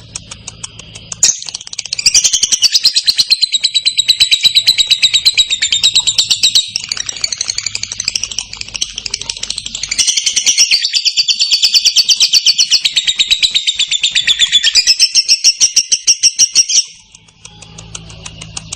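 Lovebird singing a long 'ngekek': a loud, fast, clear chattering trill of rapidly repeated high notes that starts about a second in, runs for some fifteen seconds with a slightly softer stretch in the middle, and cuts off abruptly near the end, leaving faint chirps.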